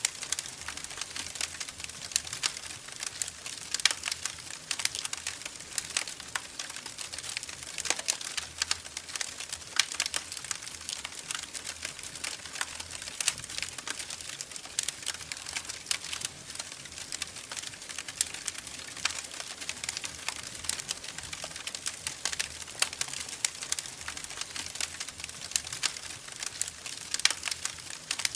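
Wood fire crackling in a fireplace: dense, irregular sharp pops and snaps over a soft steady hiss.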